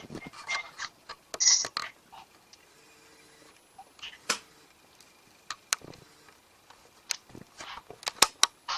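Irregular sharp clicks, ticks and knocks with brief rustles, some louder near the start and a cluster of quick ticks near the end, unexplained noises that the owner takes for a visiting spirit.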